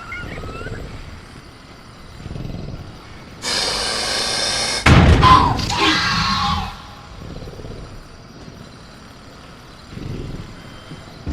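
Velociraptor sound effects over low jungle ambience. About three and a half seconds in comes a hissing screech, then a loud sudden bang like the cage being rattled, with a shrieking call that fades out over the next two seconds.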